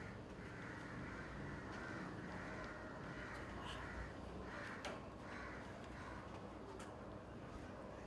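A bird giving faint, hoarse calls repeatedly, about once a second.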